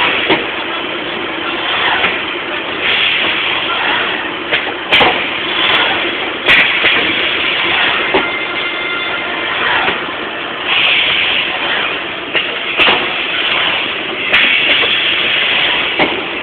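High-frequency plastic welding machine with automatic feeder running through its cycles over a steady machine noise. Sharp knocks come every few seconds, and stretches of hiss last a second or so.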